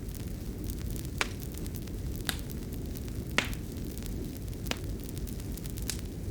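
Wood fire crackling in a fireplace: a steady low rumble with five sharp pops about a second apart, the loudest a little past the middle.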